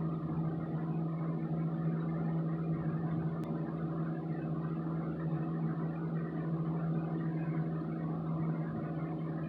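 Steady low mechanical hum with a strong even drone tone, like a running appliance or fan motor, with one faint click about three and a half seconds in.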